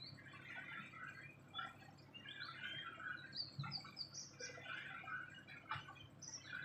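Small birds chirping and twittering in quick runs of short, high notes.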